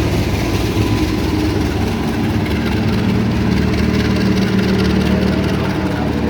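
Heavy diesel engine running steadily, with several low, even tones and no change in level.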